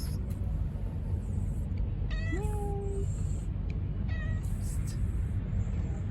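A stray cat meowing twice: a call about two seconds in that levels off into a held tone, and a shorter one about four seconds in. A steady low rumble runs underneath.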